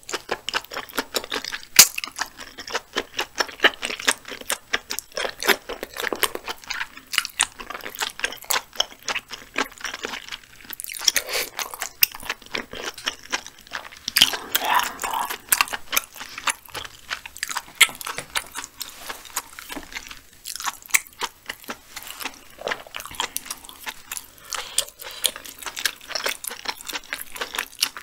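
Close-miked chewing of spicy braised chicken stew with large and small intestines (dakbokkeumtang with daechang and gopchang). A dense, irregular run of short mouth clicks and smacks goes on throughout.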